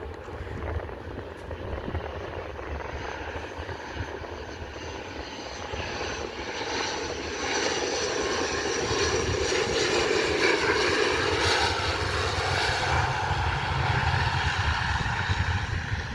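Embraer E190 airliner's twin turbofan jet engines running, a steady roar that grows louder about halfway through and stays loud.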